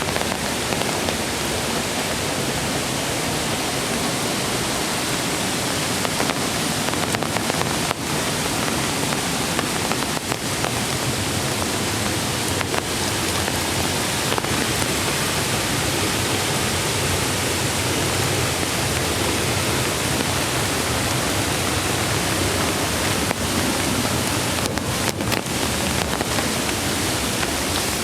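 Steady rush of a mountain stream's flowing water, with a few faint ticks scattered through it.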